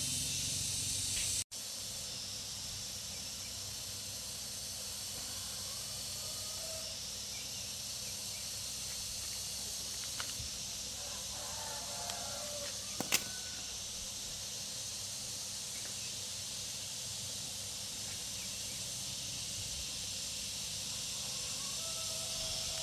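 Steady hiss over a low hum, with a brief dropout early on and a few faint clicks around the middle.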